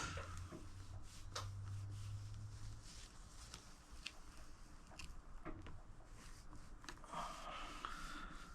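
Faint handling sounds: scattered light clicks and rustles of decal sheet and plastic side panel being worked by hand, with a low hum for the first few seconds.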